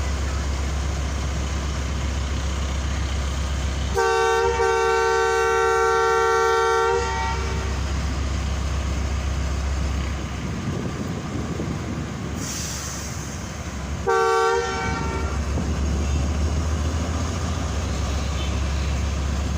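Diesel locomotive's horn sounding twice: a long blast of about three seconds, then about ten seconds later a short blast. Both are two-note chords over a steady low rumble.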